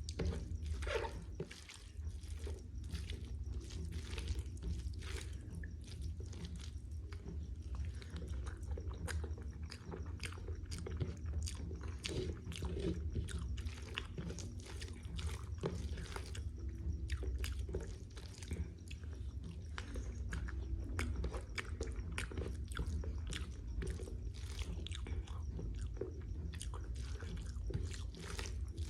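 Close-up eating of rice with spicy jackfruit (kathal) curry: a continuous run of chewing and biting sounds, many quick mouth clicks and smacks, over a steady low hum.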